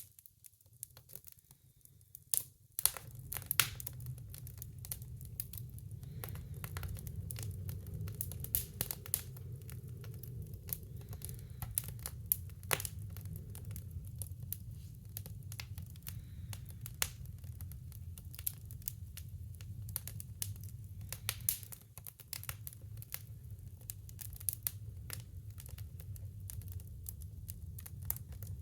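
Kindling fire crackling in a wood stove: frequent sharp snaps and pops over a steady low rumble, which starts suddenly about three seconds in.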